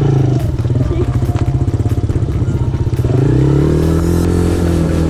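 Off-road motorcycle engine running close by with a rapid, pulsing beat, then revving up about three seconds in and holding at a higher pitch.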